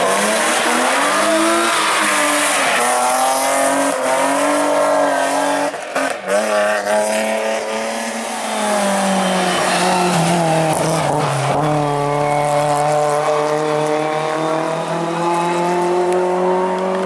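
A hillclimb race car's engine running flat out, its pitch climbing through the gears with a sharp break in the revs about six seconds in, then falling away and building again.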